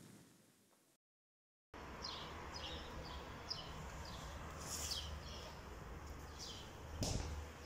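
Birds chirping: a run of short, high chirps repeating about twice a second over a steady low background hum, starting after a brief moment of silence.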